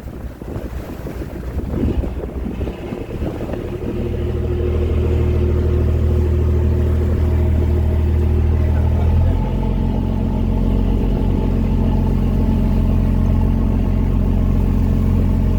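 Fishing boat's engine running steadily with a low hum, settling in about four seconds in after some irregular noise; its tone changes slightly about nine seconds in.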